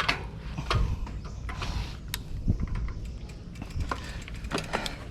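Mountain bike being ridden over a rough dirt trail: scattered clicks, knocks and rattles of the bike over a steady low rumble.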